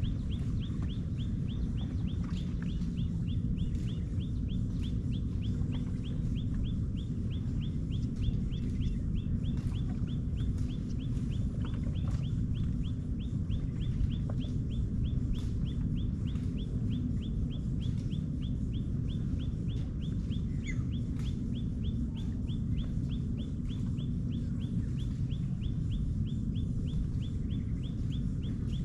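A bird calling in a long, even series of short high notes, each dropping in pitch, about three a second, over a steady low rumble.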